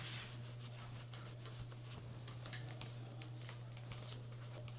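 Faint rustling and light scattered clicks of hands handling things, over a steady low hum.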